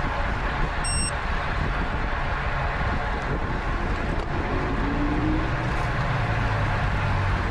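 Steady wind rush and buffeting on the camera microphone of a bicycle racing at speed, with a brief high beep about a second in.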